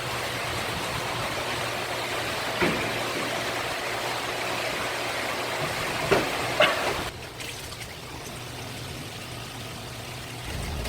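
Steady rushing water with a low hum underneath, a few short knocks about three and six seconds in, then it turns quieter about seven seconds in.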